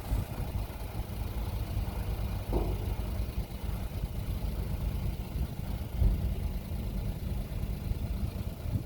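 Suzuki Carry mini truck's three-cylinder engine idling steadily while the electric-hydraulic dump bed lowers, with a short knock about six seconds in.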